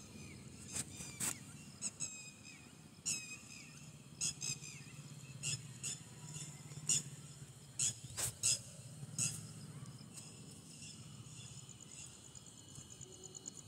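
Birds calling in short, separate chirps scattered through, with a cricket starting a fast, even chirr near the end. A faint low hum runs underneath.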